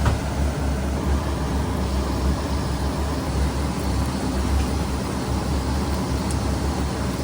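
Steady low mechanical rumble with an even hiss, broken only by a few faint light clicks.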